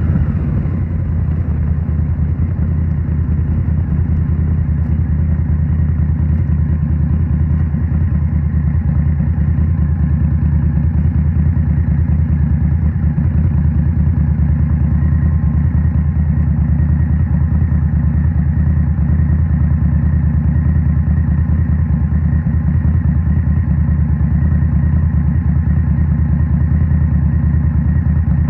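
2023 Indian Scout Rogue's 69 cubic-inch V-twin running steadily through a Rinehart 3.5-inch slip-on exhaust, its deep low note holding an even pitch throughout.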